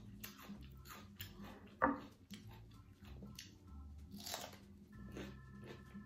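A person eating air-fried sweet potato fries and salad close to the microphone: quiet biting and chewing with small crunches and mouth clicks, and one sharper bite about two seconds in.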